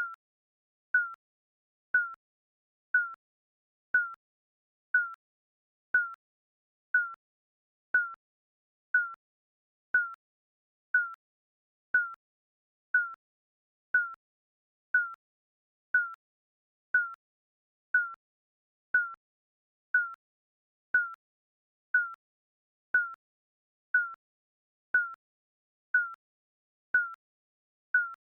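Digital countdown timer beeping once a second: a short, single-pitched electronic beep that fades quickly, repeating evenly.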